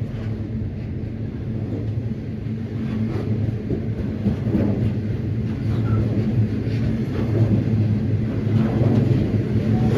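Diesel freight locomotives of the 82 class running with a steady low engine drone that grows slowly louder as the train draws nearer.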